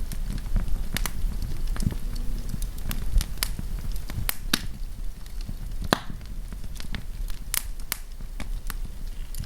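Wood campfire crackling, with irregular sharp pops over a steady low rumble of the flames.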